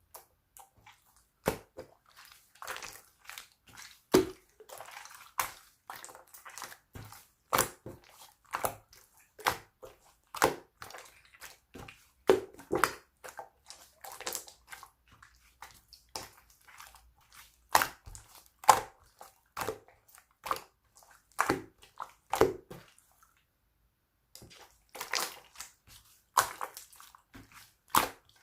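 Slime being squeezed and pressed by hand: a string of irregular wet clicks, squelches and small air-bubble pops, several a second, with a short pause near the end.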